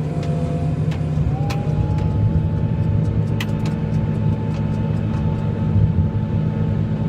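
Snowplow vehicle's engine running steadily under load, with a thin steady whine that glides up in pitch about a second in and then holds, and a couple of sharp clicks.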